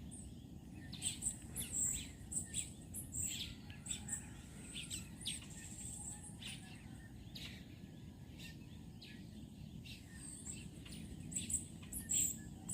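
Birds chirping: short calls come and go irregularly throughout, over a steady low background noise.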